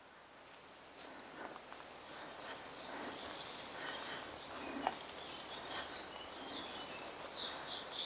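Woodland birds singing, with quick high chirps and a run of stepped whistled notes near the start. Light footsteps on a dirt forest path rustle underneath.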